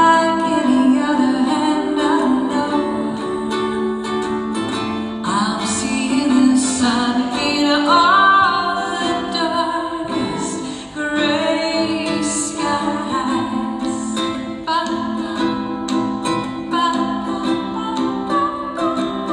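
A woman singing a slow song live over acoustic guitar, with held notes that glide in pitch.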